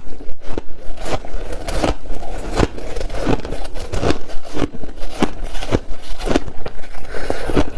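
Ice being bitten and chewed close to the microphone: a quick, uneven series of sharp crunches, about two a second.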